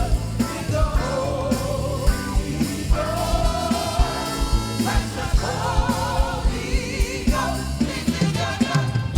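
Gospel worship song sung live by a worship team: a lead singer's voice with vibrato over a band with a steady drum beat.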